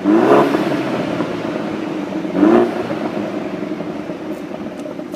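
BMW F30 328i's turbocharged four-cylinder engine through a performance rear silencer, echoing in a tunnel: two revs rising in pitch about two seconds apart, then the exhaust note fades away.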